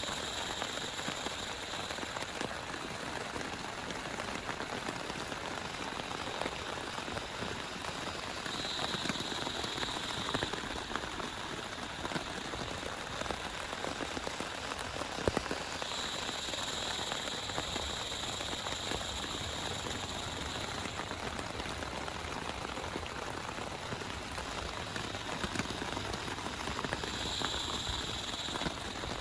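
Steady rain falling, an even hiss with many individual drops ticking on a surface. A higher-pitched hiss swells in and fades out a few times, near the start, around a third of the way in, past the middle and near the end.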